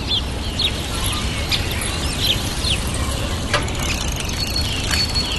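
Birds chirping in short, falling calls, several in quick succession at first, over a steady low rumble of outdoor background noise.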